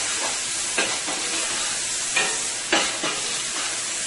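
Onions sizzling as they sauté in hot oil in a large stainless-steel stock pot, with a steady hiss. A metal spoon scrapes and clinks against the pot as they are stirred; a few sharp strokes stand out, the clearest near the middle.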